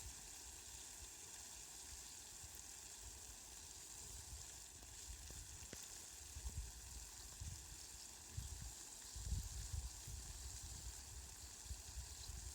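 Steady, faint hiss of falling rain, with irregular low rumbles that swell about halfway through and most strongly around three-quarters of the way in.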